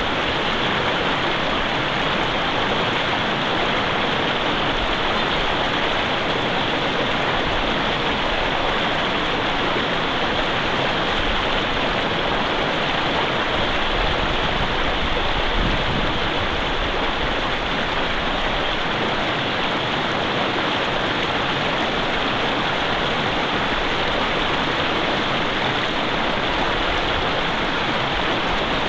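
Mountain river water running steadily, an even rushing sound with no break. There is one soft low bump about halfway through.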